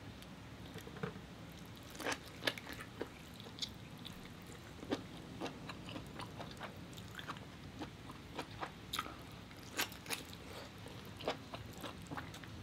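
Close eating sounds: irregular wet clicks and smacks of a person chewing lobster meat and handling the sauce-soaked meat by hand.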